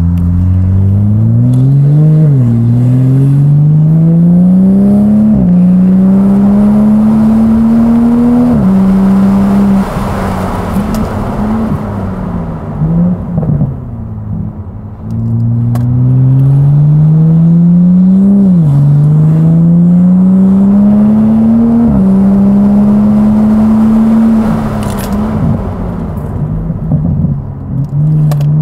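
Toyota A90 Supra engine pulling hard twice, its note climbing through the gears with quick drops in pitch at each upshift. Between the two pulls and after the second, it eases off and coasts with road noise.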